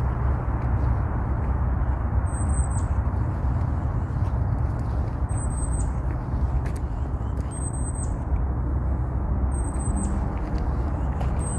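A thin, high bird call repeated every two to three seconds, each note short with a slight drop at its end, over a steady low rumble.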